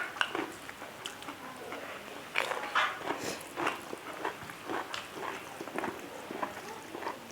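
Close-up eating sounds of beef innards being chewed: repeated wet smacks and clicks of mouths and teeth, in quick irregular succession, busiest a little over two seconds in.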